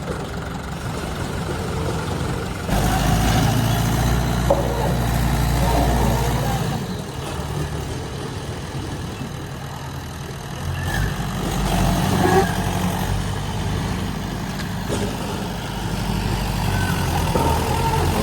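Mahindra 575 tractor's diesel engine running and revving up in surges, three times, as it works under load to pull itself free while stuck.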